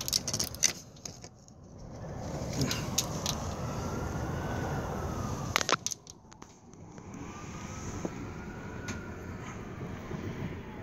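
A faint siren wailing up and down twice over steady rumbling noise, with a few sharp clicks.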